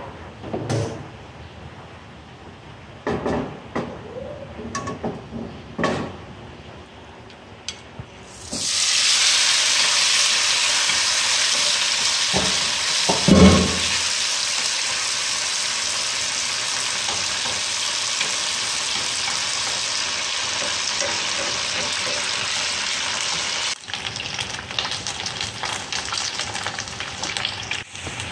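Pork belly pieces frying in hot oil in a nonstick pan. A few knocks and clicks come first. A third of the way in, a loud, steady sizzle starts suddenly as the meat goes into the oil, with a thump as chopsticks stir and knock the pan. Near the end the sizzle turns to a lighter, uneven crackle and spitting as the pork browns.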